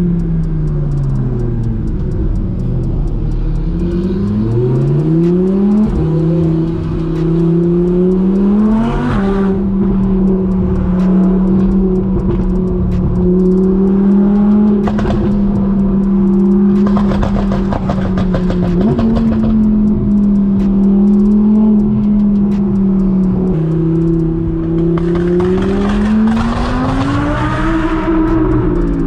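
Supercar engine accelerating through the gears. Its pitch climbs and then drops sharply at upshifts about six and nine seconds in, holds steady at a cruise, and climbs hard again near the end before easing off.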